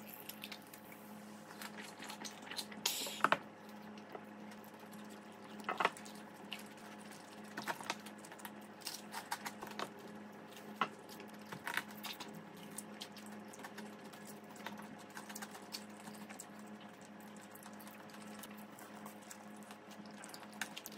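Close-miked eating of cheese-powdered fried chicken: wet chewing and mouth sounds with scattered sharp crunches and clicks, the loudest about three and six seconds in, over a steady low hum.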